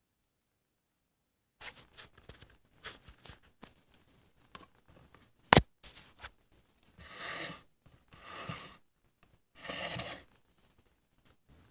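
Handling noise: scattered light clicks and scrapes, one sharp knock about five and a half seconds in, then three short scraping or rustling passes.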